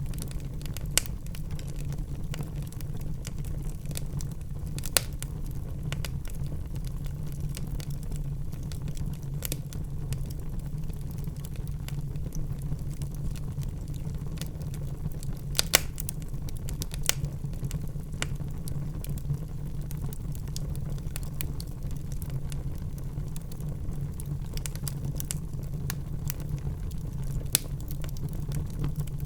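Wood fire burning in a fireplace: a steady low rumble of flame with sparse sharp crackles and pops, a few louder snaps scattered through.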